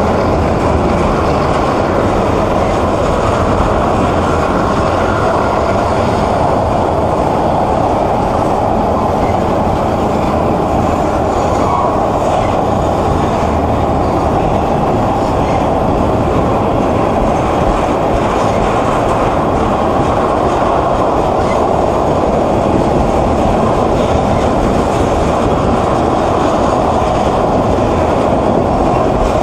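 Freight train of tank cars rolling past close by: a steady, continuous noise of steel wheels running on the rails.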